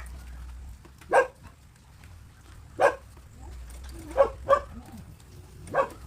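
A dog barking: five short barks spaced unevenly, two of them close together past the middle, over a low steady hum.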